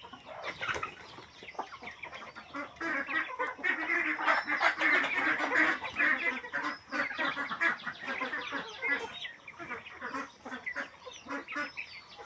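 A flock of domestic fowl calling, many short overlapping calls at once, busiest and loudest in the middle.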